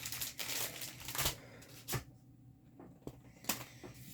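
Plastic packaging rustling and crinkling as diamond-painting kit pieces are handled, then a few light taps and clicks.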